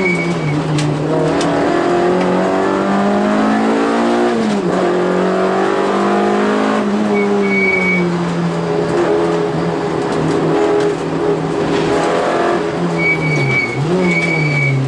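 Peugeot 205 rally car's engine heard from inside the stripped cabin, driven hard through the gears: the pitch climbs under acceleration and drops sharply at gear changes about four and a half seconds in and again near the end. A few short high-pitched squeals come and go over the engine.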